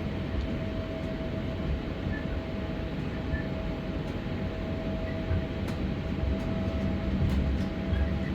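Passenger train running, heard from inside the carriage: a steady low rumble of the wheels and running gear with a faint steady whine.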